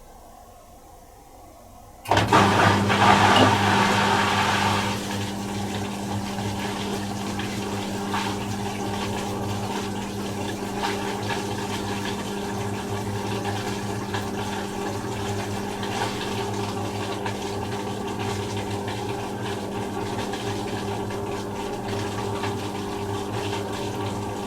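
Miele Little Giant PWM 507 commercial washing machine starting to drain about two seconds in: a sudden loud gush of water for a few seconds, then a steady pump hum with water running out, as it empties the drum for its 500 rpm intermediate spin.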